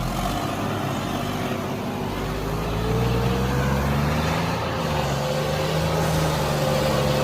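Diesel tractor engine running under load, its pitch climbing over a couple of seconds about two seconds in and then holding steady.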